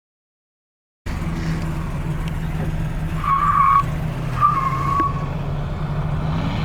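Drift car's engine running steadily while it slides, with two short tyre squeals about three and four and a half seconds in. The audio drops out to dead silence for the first second.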